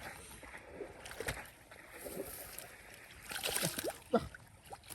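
Shallow muddy water sloshing and splashing as hands work through a flooded rice field after fish, in scattered short splashes with a louder rush of water about three and a half seconds in and a sharp splash just after.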